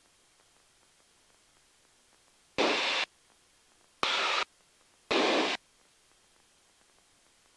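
Three short bursts of radio static heard through the aircraft's headset audio, each about half a second long and opening with a click, about a second apart.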